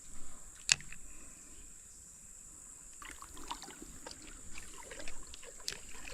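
Shallow creek water trickling and splashing faintly around a person standing in it, with one sharp click just under a second in and small irregular splashes and knocks from about three seconds in.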